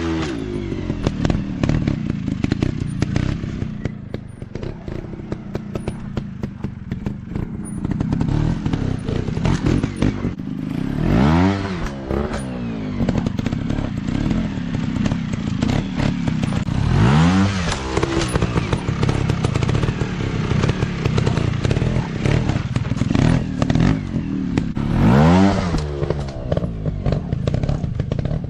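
Dirt bike engine running and revving in sharp throttle bursts, its pitch sweeping up three times and falling back between, amid constant rapid clattering and knocking.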